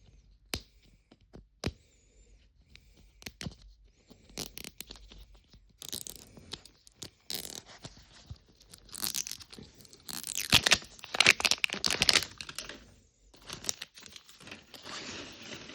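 Paper wrapping being torn open and crumpled by hand, rustling irregularly and loudest in the middle, after a few sharp plastic clicks near the start.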